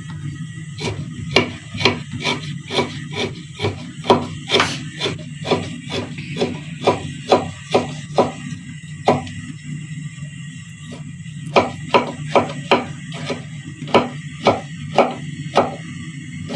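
Knife chopping fresh ginger on a cutting board: steady, even strokes at about two a second, with a pause of about two seconds midway.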